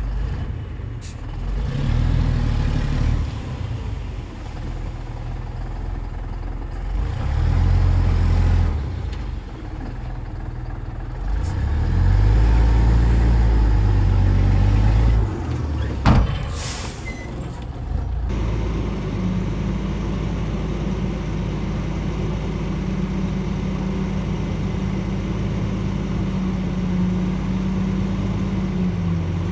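Shantui DH17C2 crawler bulldozer's diesel engine working under load, its note rising and falling in surges as it pushes soil. A sharp click and a brief hiss come about sixteen seconds in, and from about eighteen seconds the engine runs steadily.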